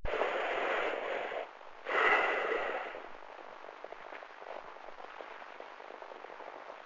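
Two loud bursts of crackling noise, about a second each, with a faint steady tone in the second, then a softer steady crackle.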